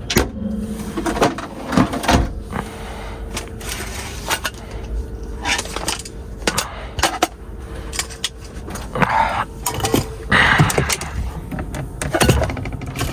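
Irregular knocks, clicks and rustling of objects being handled, like things set down and moved about in a cupboard or on a counter, over a faint steady hum.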